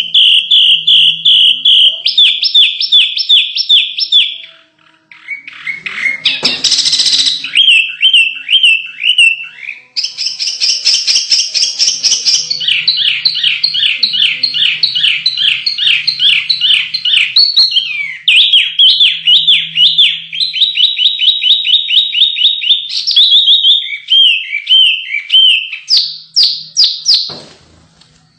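Small songbirds singing fast runs of sharp repeated chirps and trills, the phrase changing every few seconds. A brief noisy burst comes about seven seconds in.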